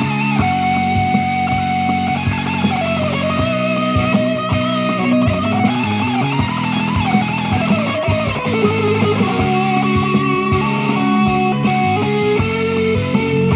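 Guitar improvising a melody with string bends, gliding up and down over sustained low notes.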